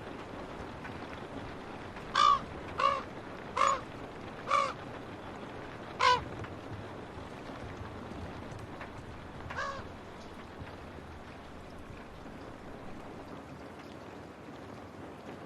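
A crow cawing five times in quick succession, then once more, fainter, a few seconds later, over the steady hiss of rain.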